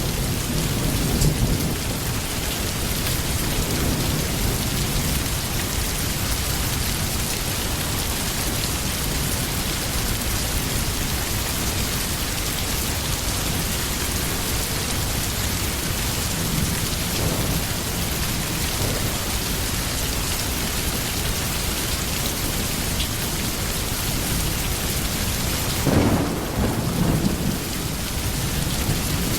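Steady rain with low rolls of thunder now and then: near the start, around the middle and a few seconds before the end.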